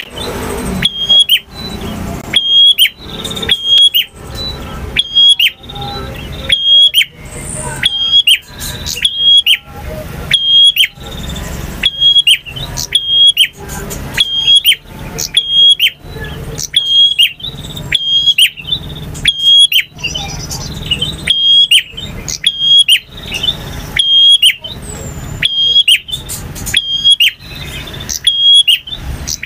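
Male prinia (prenjak) singing: a loud, sharp, high chirping note repeated about once a second in a steady series, with a low rumble of background noise between the notes.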